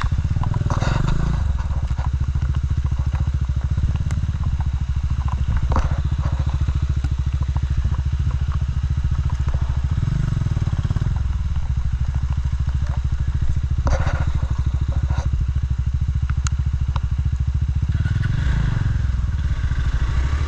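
Motorcycle engine running hard at low speed, a steady pulsing rumble that comes up sharply right at the start and swells twice more. A few sharp clicks and knocks cut through it.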